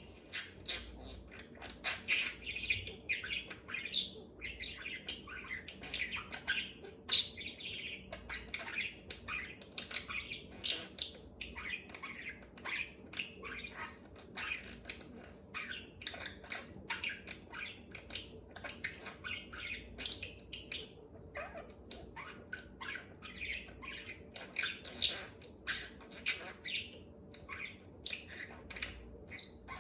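Budgerigar chattering to itself: an unbroken stream of quick chirps, squawks, clicks and warbles.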